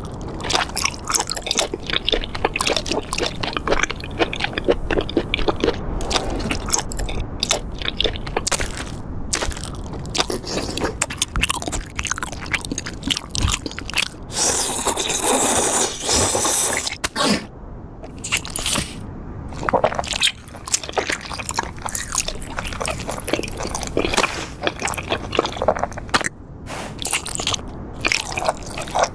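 Close, crackling crunching and scraping: a dense run of irregular crackles and clicks, with a louder hissing rush lasting about two seconds midway through.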